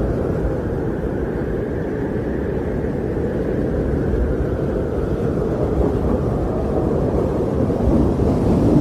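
Winter wind blowing steadily, a low rushing noise that swells and eases slowly, a little stronger near the end.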